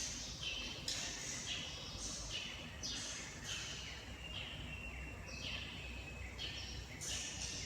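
Swiftlets chirping: a repeated call, each a falling buzzy sweep that settles into a short thin whistle, coming about once every half second to a second.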